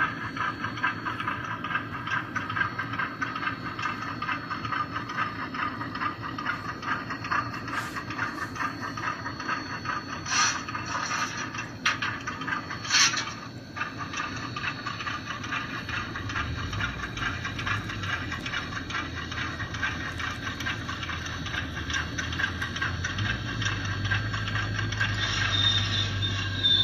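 Model train running along layout track: its motor and gears whirring, with a steady fast clatter of wheels over the rails.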